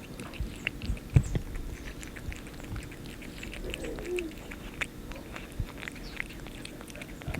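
A cat eating wet canned food: small irregular clicks and smacks of licking and chewing. About four seconds in, a short low wavering sound.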